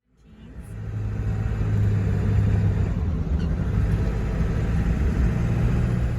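A road vehicle driving: a steady low engine and road rumble that fades in over about the first second.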